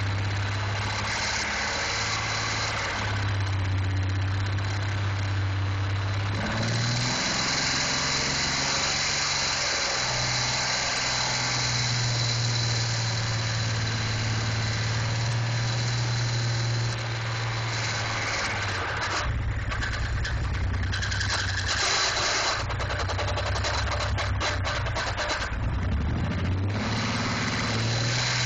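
GM 4.3L TBI V6 running hard with no oil or coolant, its speed stepping up and down several times, with a rougher, rapidly pulsing stretch past the middle.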